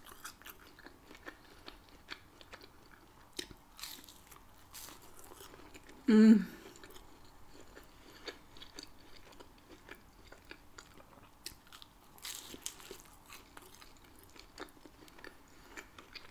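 Close-up eating sounds of a char-grilled cheese quesadilla: crisp tortilla bites and chewing, with many small crunches. About six seconds in there is one short, loud voiced hum.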